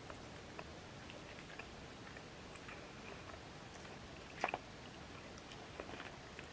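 A person chewing food quietly, with small wet mouth clicks throughout and a sharper double click about four and a half seconds in.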